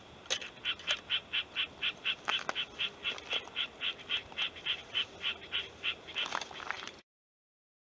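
An animal calling outdoors in a rapid, even series of short calls, about four a second, with a couple of sharper chirps near the end; the sound cuts off suddenly about seven seconds in.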